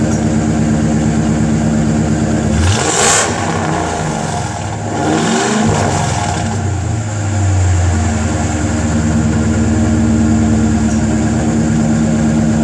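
Supercharged V8 of a 2005 Mercury Grand Marquis, with stock log manifolds, no catalytic converters and a 3-inch Stainless Works exhaust, idling steadily. It is revved twice, about three seconds in and again about five seconds in, each rev rising and falling back, then it settles back to idle.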